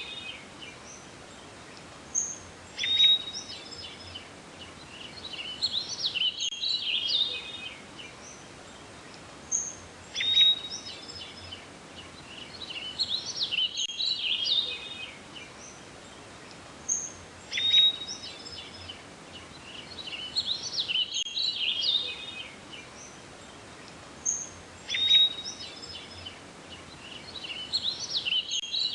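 Songbird calls: short high chirps and whistled phrases over a steady hiss, repeating in an identical loop about every seven and a half seconds.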